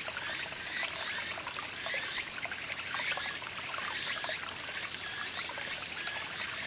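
Insects trilling in a loud, steady, high drone over the trickling and gurgling of a small garden stream.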